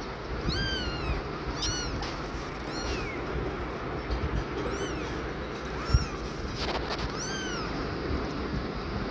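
Newborn kittens mewing: about six short, high-pitched mews, each rising then falling in pitch, spaced a second or two apart. A single brief knock about six seconds in.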